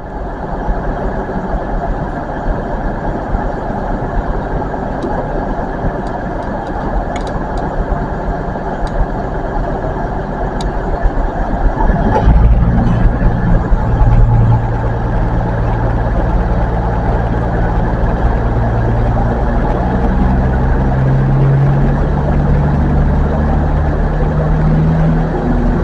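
Diesel train engine running at the platform. A steady, low engine note comes in about halfway through and stays louder over a constant background rumble.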